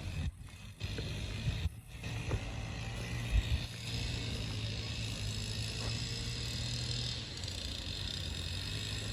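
Steady low mechanical hum, like a running engine, under a constant hiss of background noise, with two brief dips in the hiss in the first two seconds.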